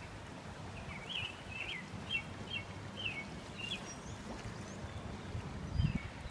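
Steady rush of a flooded, fast-moving creek, with a bird chirping a quick run of short high notes over it for a few seconds. A brief low thump comes near the end.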